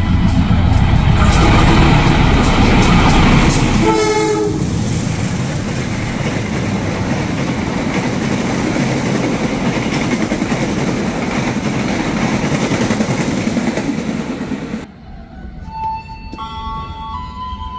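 Diesel-electric locomotive hauling a passenger train passes through at speed, loud and close, with wheels clicking over the rail joints and a short horn blast about four seconds in, followed by the steady rolling noise of the coaches going by. The sound cuts off abruptly near the end, and a quieter, more distant train horn sounds in the last two seconds.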